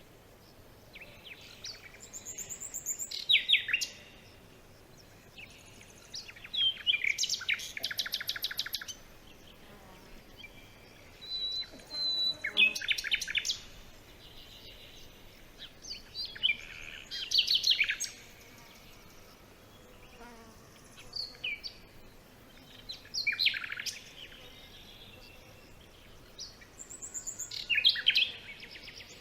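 Songbirds singing in a forest: short phrases of rapid high chirps and trills, repeated every few seconds over a faint background hush.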